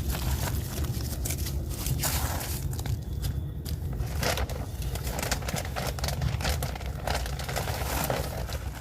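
Hands spreading and breaking up damp compost in a plastic storage tote: irregular crunching and scraping of soil, over a steady low rumble.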